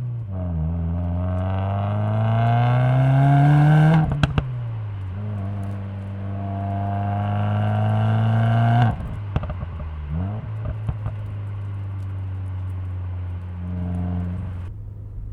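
Car engine under acceleration: the revs climb, drop sharply at a gear change about four seconds in, climb again and drop at a second shift about nine seconds in, then the engine runs on steadily at lower revs. A couple of short clicks come with the first shift.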